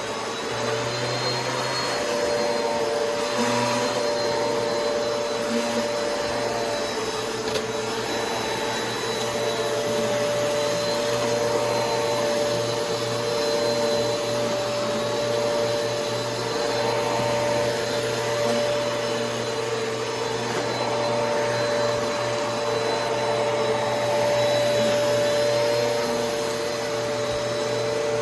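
Kenmore Progressive canister vacuum with a power nozzle running continuously while vacuuming floors: a steady motor whine over a rush of airflow, with one tone wavering slightly and the loudness swelling a little now and then.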